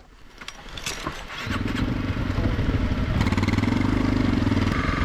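Single-cylinder dual-sport motorcycle engine being started after the bike was dropped: it catches about a second and a half in, then runs steadily, with a little more throttle in the middle.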